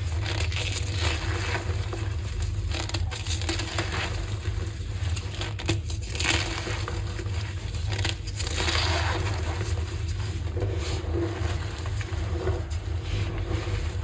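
Green-dyed gym chalk being crushed and crumbled by hand, in a run of squeezes about a second apart, over a steady low hum.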